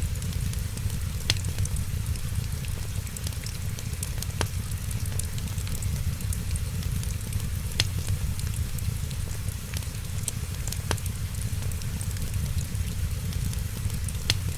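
Wood fire crackling, with fine clicks and a few sharper pops about every three seconds, over a steady low rumble.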